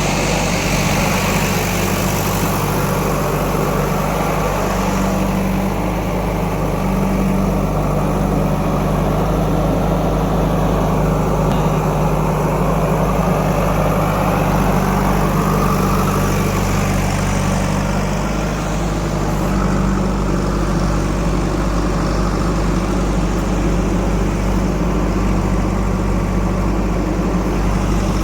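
Heavy diesel engine running steadily at an even, near-constant speed.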